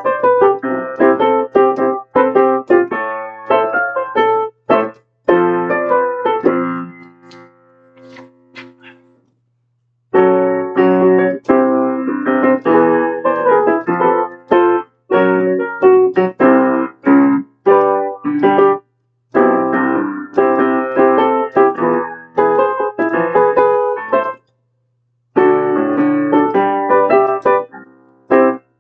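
Piano chord accompaniment played in runs of struck chords, with the playing breaking off for about a second around nine seconds in and again briefly twice later. A faint steady low hum lies underneath.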